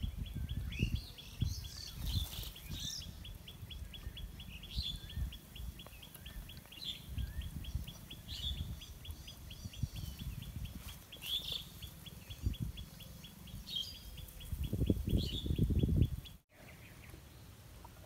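Small birds chirping in short high calls every second or two over a steady, rapid high-pitched ticking trill that stops suddenly near the end, with a low rumble underneath that swells just before the ticking stops.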